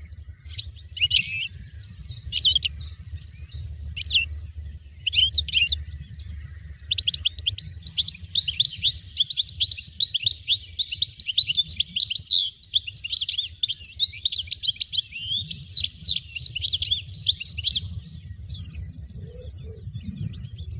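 European goldfinch song: a few short, sharp call notes, then from about seven seconds in a long run of rapid, liquid twittering that stops near the end. A low rumble runs underneath.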